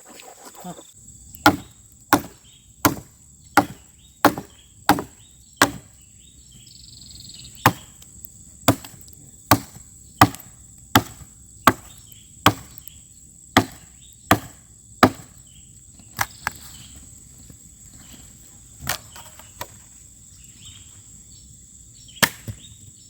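Repeated chopping strikes, a blade hitting wood: about twenty sharp blows, quick and regular at first, then further apart. A steady high insect drone runs underneath.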